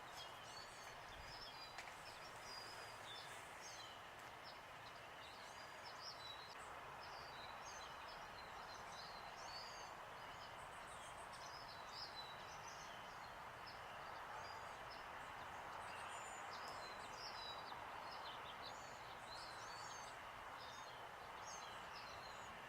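Several small songbirds chirping and twittering, call after call, over a faint steady outdoor background noise.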